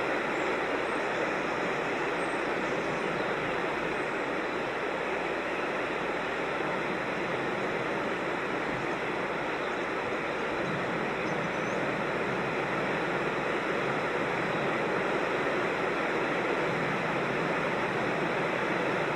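Creek water rushing steadily over rocks in a cascade, an even unbroken rush of noise.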